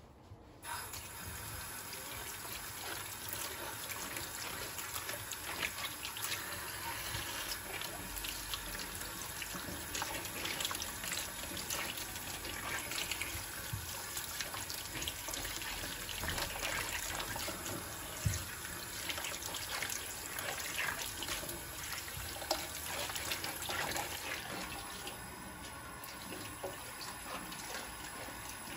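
Water running from a kitchen tap into a sink, starting about a second in, with irregular splashes and small knocks.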